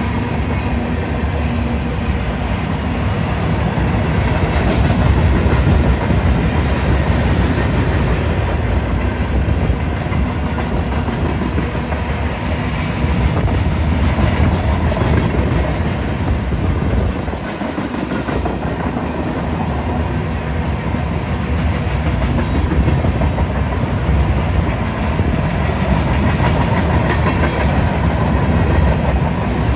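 Union Pacific freight train's cars rolling past on the rails, a loud, steady noise of wheels on track, briefly easing about two-thirds of the way through.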